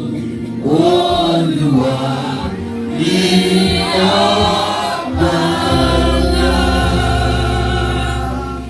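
Church choir singing a gospel song, several voices together; a low, steady bass note comes in about six seconds in and holds to the end.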